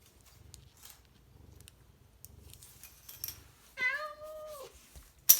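A domestic cat gives a single drawn-out meow about four seconds in, after some faint rustling. Just before the end comes a sharp click, the loudest sound.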